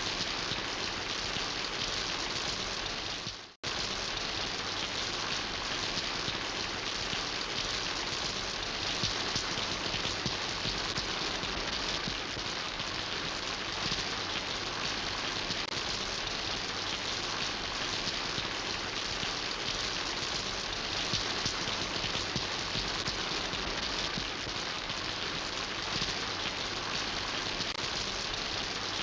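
Steady rain falling, a dense even patter of drops on surfaces. It fades out briefly about three and a half seconds in, then returns at once.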